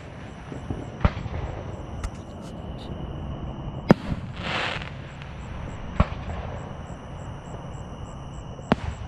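Fireworks going off: about five sharp bangs at uneven intervals, the loudest about four seconds in, followed right away by a short crackling hiss, over a low steady rumble.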